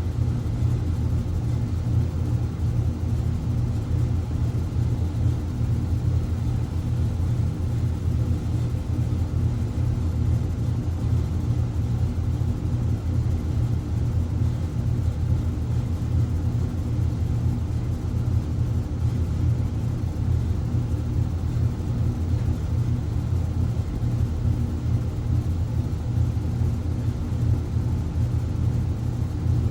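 A household machine running with a steady low hum that does not change.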